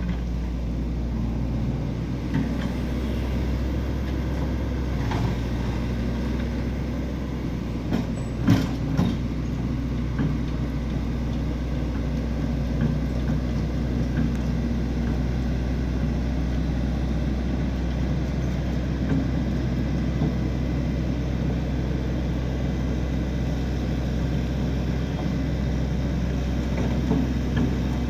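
An engine running steadily at an even speed, with a few sharp knocks, the strongest about eight and a half seconds in.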